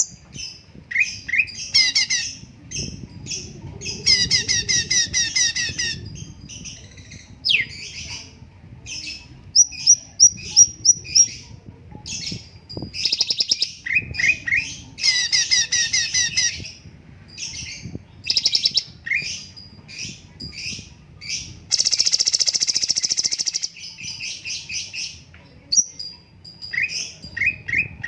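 Cucak cungkok songbird singing in quick, varied bursts of chirps, trills and harsh chattering notes, with a longer rasping phrase about three quarters of the way through.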